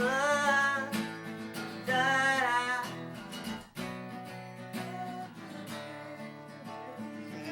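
Acoustic guitar strumming the closing bars of a rock song, with a voice singing wordless "da, da" phrases twice in the first three seconds, then the guitar strumming on alone.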